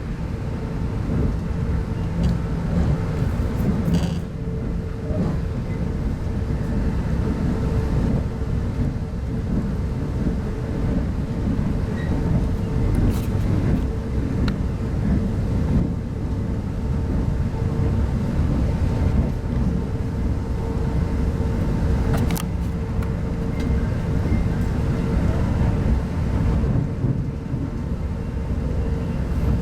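Running noise inside a CR 25T passenger coach travelling at speed: a steady, dense rumble of wheels and bogies on the track, with a steady humming tone underneath and a few faint clicks.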